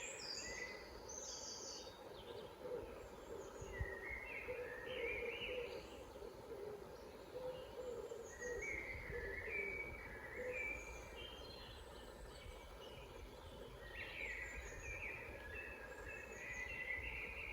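Several forest birds singing: repeated short chirped phrases, with high thin notes above them and some lower warbling in the first half, over a steady low background rumble.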